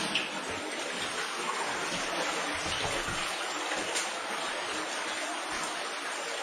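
Underground cave stream flowing with a steady rushing of water, with a couple of faint knocks, one just after the start and one about four seconds in.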